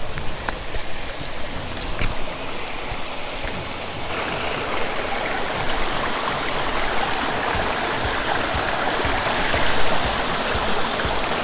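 Small mountain stream running over rocks, a steady rush of water that gets louder about four seconds in.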